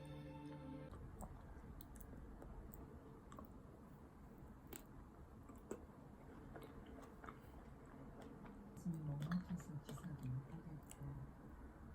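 Background music ending about a second in, then faint scattered clicks and taps, with low murmured voices near the end.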